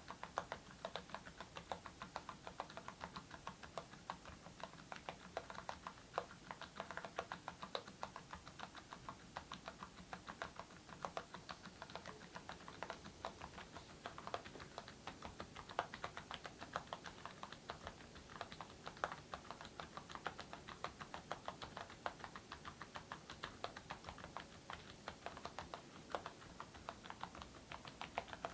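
Continuous typing on a mechanical keyboard fitted with full-metal keycaps and silent switches: a steady run of keystrokes, several a second.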